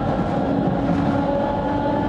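Sangi Railway 270 series 762 mm narrow-gauge electric train running between stations, heard from on board: a steady rumble of wheels on rail with a whine of several held tones over it.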